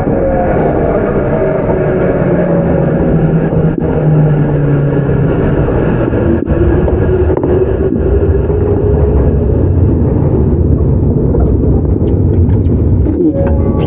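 Tokyu 9020-series commuter train running, heard from inside a car: Mitsubishi VVVF inverter and traction motor whine over steady wheel-and-rail noise. Whining tones fall in pitch over the first few seconds, and a tone rises through the middle.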